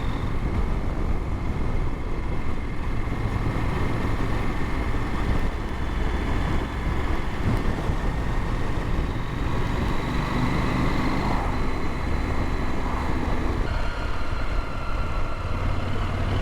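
KTM motorcycle engine running steadily while riding, with wind noise over it; the engine note changes once, about three-quarters of the way through.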